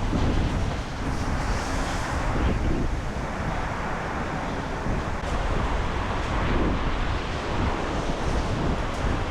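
Tremendous storm wind buffeting the microphone with a heavy low rumble, over choppy lake waves washing against the shore.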